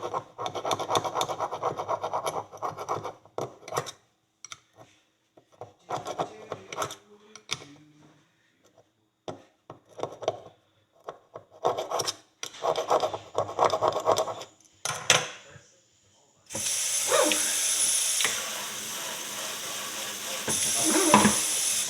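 A knife scraping and rasping packed dirt out of a metal horseshoe's groove and nail holes in short irregular bursts. About two thirds of the way in, a steady hiss of running tap water starts and carries on to the end.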